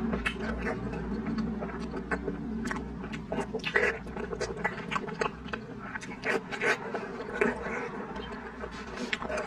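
Close-miked eating: wet smacks, slurps and irregular sharp clicks of soft, jelly-like duck blood tofu being bitten and chewed, over a low steady hum.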